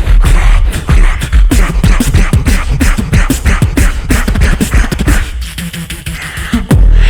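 Live vocal beatboxing by a duo: rapid drum-like kicks, snares and clicks over a deep bass line. About five seconds in, the bass drops out and the level dips for a moment, then the full bass comes back near the end.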